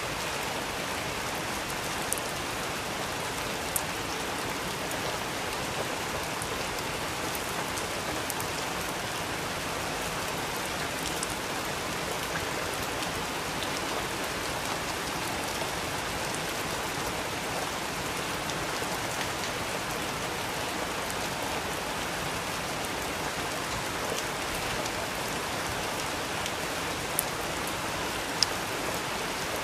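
Steady rain falling on a surface, an even hiss with a few sharp ticks scattered through it.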